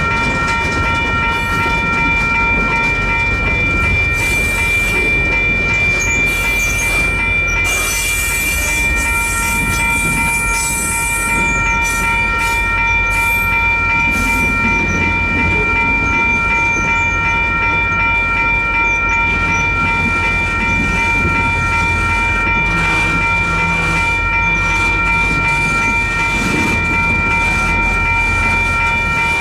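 A Union Pacific freight train rolls through a grade crossing with a low rumble and wheel clatter. The crossing's WCH electronic bells ring continuously over it at a fixed pitch.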